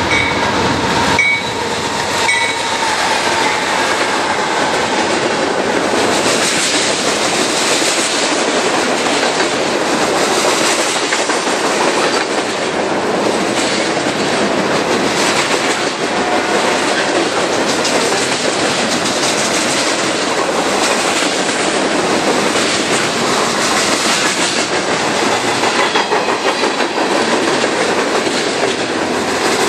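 A train rolling past close by: a steady, loud rush of wheels clattering over the rails, with a few brief high squeals in the first couple of seconds.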